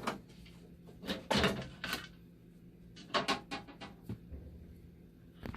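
Knocks, clicks and scraping of parts being handled while a dialysis machine is taken apart to remove its power supply, with a louder scraping rattle about a second in and another cluster of clicks about three seconds in.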